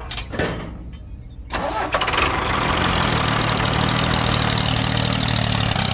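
An engine starts about a second and a half in, then runs steadily with a low, even rumble.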